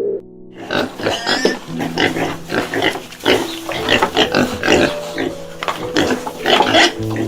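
Pig oinking in a quick, steady run of short calls, starting about half a second in.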